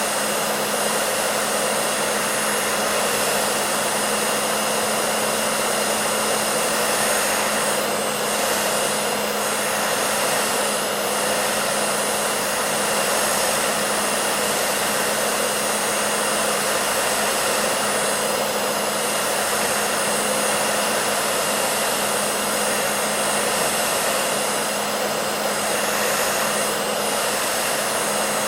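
Electric hair dryer running steadily: an even rushing of blown air with a constant low motor hum underneath.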